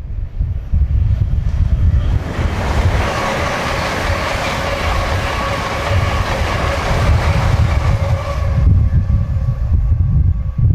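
A train passing on the line, its wheels clattering over the rails. It swells in about two seconds in and cuts off sharply near the end. Wind buffets the microphone throughout.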